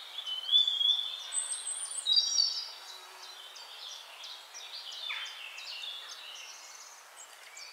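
Several wild birds chirping and calling over a steady outdoor hiss, busiest in the first couple of seconds, with one falling whistle about five seconds in.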